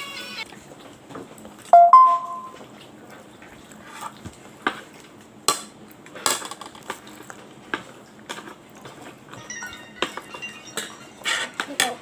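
Dishes and cutlery clinking and knocking during a meal: scattered light taps and scrapes, with one loud ringing clink about two seconds in.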